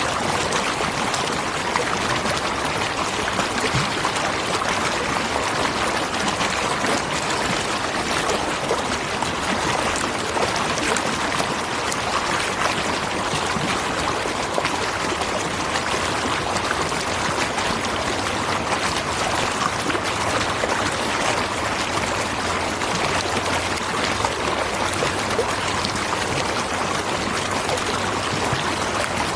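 Natural waterfall: a steady, unbroken rush of falling and splashing water.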